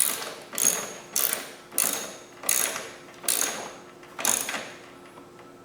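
Ratchet wrench being swung in short strokes to tighten a fastener, each stroke a quick rasp of clicks; seven strokes, coming a little slower toward the end and stopping about four and a half seconds in.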